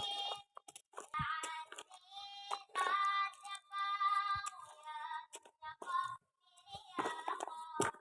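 High-pitched singing in short held notes, with crinkles and clicks of handling mixed in.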